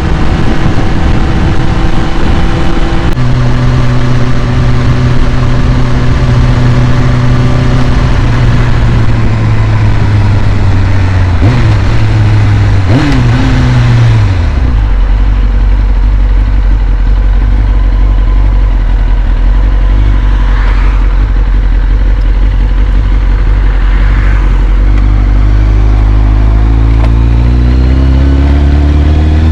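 Inline-four engine of a 2001 Kawasaki ZX-6R with carburetors, running on a cold start while it warms up. The engine speed steps down twice, with a couple of brief pitch wobbles around the middle, then settles to a low idle and climbs slowly near the end.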